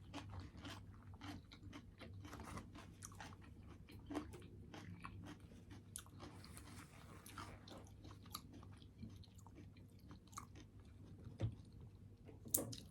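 Close-miked chewing of a rice bowl with turkey meat and avocado: many small wet mouth clicks and soft crunches, fairly quiet.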